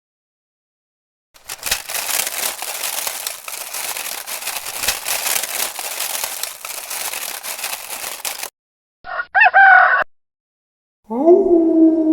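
Rooster crowing: a short call of about a second that rises and falls, coming after several seconds of harsh, crackling noise. A steady pitched tone starts near the end.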